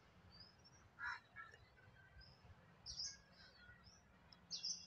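Faint bird chirps, a few short scattered calls over an otherwise near-silent background.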